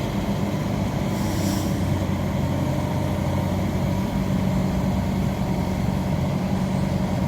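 An engine idling steadily, with a short hiss a little over a second in.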